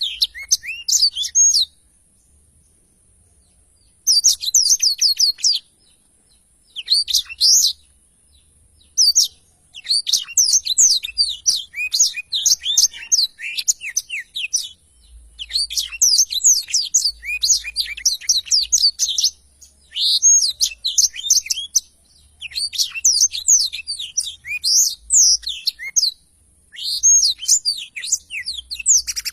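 Black-throated canary (blackthroat) in full song: bursts of rapid, high, twittering warbles lasting one to four seconds, separated by short pauses.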